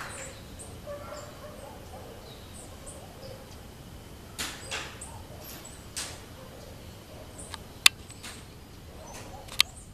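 Birds calling in short, scattered chirps over a steady outdoor background, with two sharp clicks near the end.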